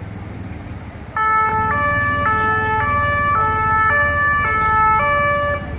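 French emergency vehicle's two-tone siren, starting about a second in and switching back and forth between two pitches roughly twice a second, then cutting off just before the end. A low traffic rumble runs underneath.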